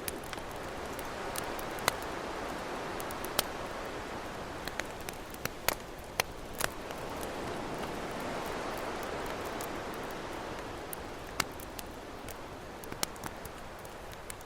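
Campfire crackling with sharp, irregular pops over the wash of ocean waves, which swell up and fall back twice.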